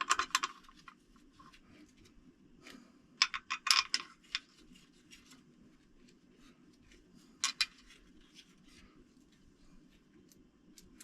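Small metal bolts clinking and rattling as they are picked through and handled, in three bursts of quick clicks: at the start, around three to four seconds in, and briefly about seven and a half seconds in.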